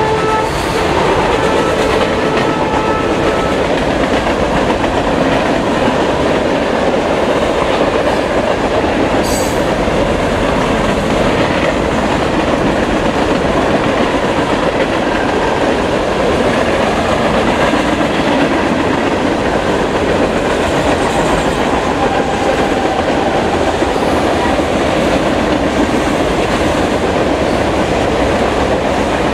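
Norfolk Southern freight train cars rolling past at speed, a steady, loud rumble of steel wheels on rail with rhythmic clickety-clack over the rail joints.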